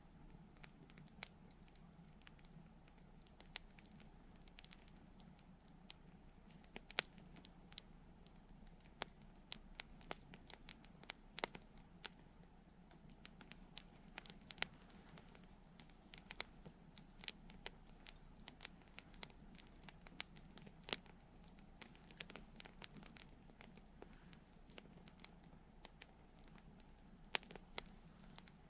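Wood campfire crackling: irregular sharp pops and snaps, sometimes several a second, some clearly louder than the rest, over a faint steady background.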